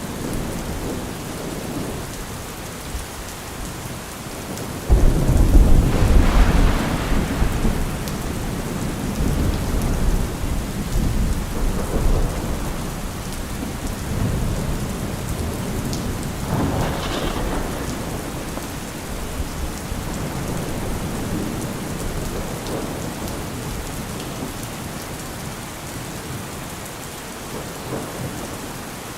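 Heavy rain falling steadily. About five seconds in, a sudden deep rumble breaks in and dies away over several seconds, and a second, weaker rumble swells up about two-thirds of the way through.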